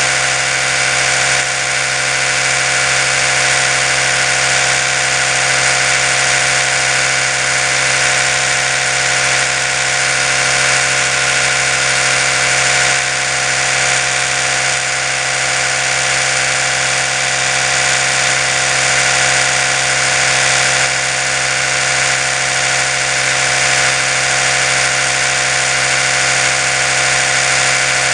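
Oral-B electric toothbrush running continuously: a steady motor hum of many even tones under a hiss, unchanging throughout.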